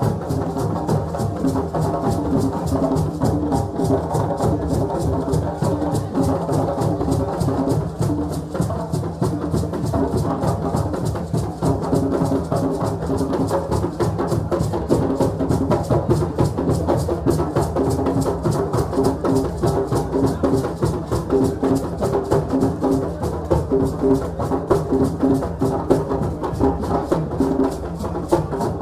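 West African celebration drumming: several drums played in a fast, steady, driving rhythm, with pitched sounds over the beat.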